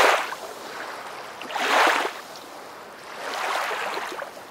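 Rushing water swelling and fading three times, about a second and a half apart, like waves washing in.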